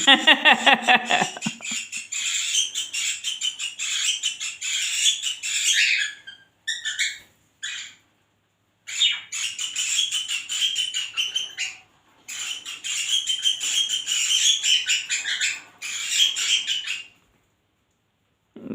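Pet budgies and cockatiels chirping and chattering in a fast, busy stream, with a falling call near the start. The chatter breaks off briefly several times.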